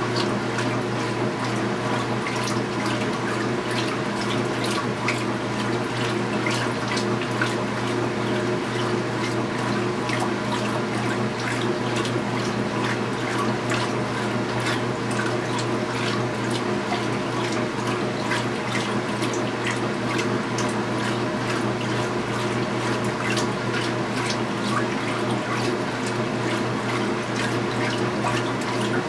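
Water running in the tub of a 2015 Speed Queen 8 Series top-load washing machine partway through its cycle, an even rush with small drips and splashes over a steady machine hum.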